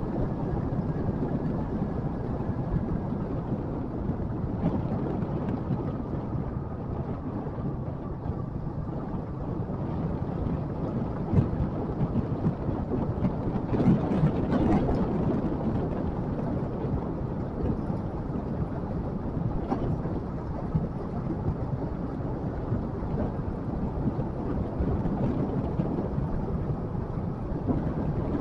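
Motorcycle running on the move, its engine drone mixed with wind noise on the microphone and road noise, steady throughout, with a louder stretch about halfway through.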